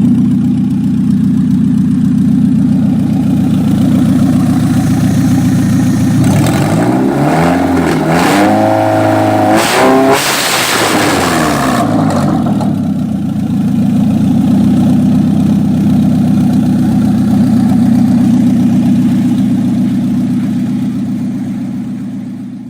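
Honda H23A 2.3-litre four-cylinder engine idling steadily. About six seconds in it is revved up once, held high for a few seconds, then drops back to idle.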